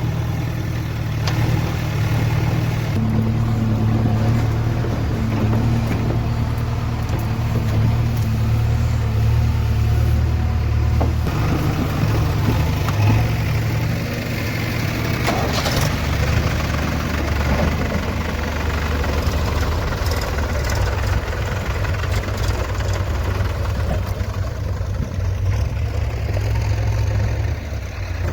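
Diesel engine of heavy farm and earthmoving machinery running steadily, its note shifting a little a few times, with a brief knock about halfway through.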